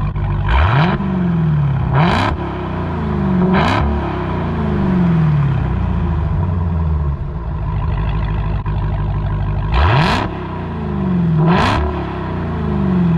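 Dodge Hellcat Redeye's supercharged 6.2-litre V8, mid mufflers deleted, idling and blipped hard three times in quick succession; after a pause of about six seconds it is blipped twice more near the end. Each rev climbs fast and falls back to idle.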